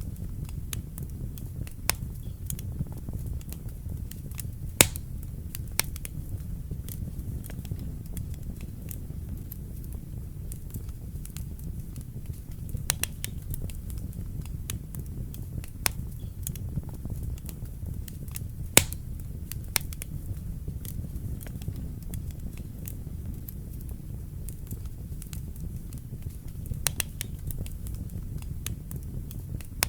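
Wood fire burning in a fireplace, a steady low rumble of flames with irregular sharp crackles and pops, two louder pops about five seconds in and near nineteen seconds.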